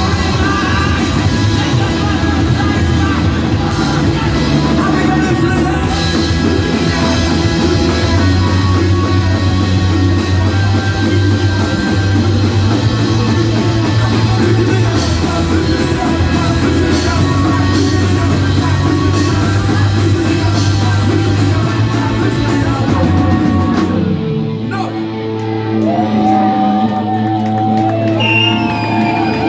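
Rock band playing live: loud guitars, bass and drums with yelled singing. About 24 seconds in, the drums and bass drop out, leaving ringing guitar tones and a wavering high tone near the end.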